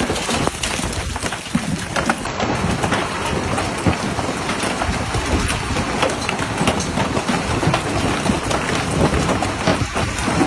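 Large hail pelting down hard: a dense, continuous clatter of many hailstone impacts.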